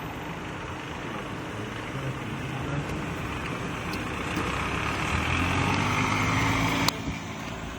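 Freeway traffic noise that swells as a large vehicle's engine drone passes close by. The noise drops suddenly with a click about seven seconds in.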